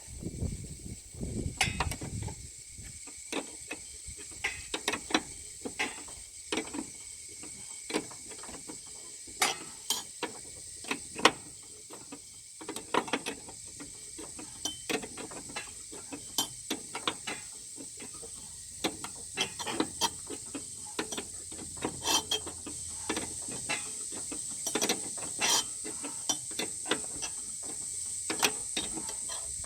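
Metal hand tools clicking and knocking irregularly as a nut is put on and tightened onto a mower deck spindle pulley. A steady high-pitched hiss runs behind it.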